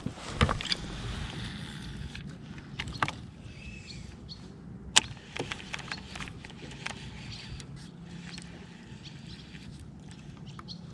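Scattered knocks and clicks of gear handled on a fishing kayak, one sharper click about halfway, over a faint steady low hum and light water noise.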